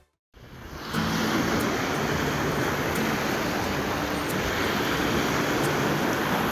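Steady rushing noise of sea waves and wind, rising in after a brief silence at the start.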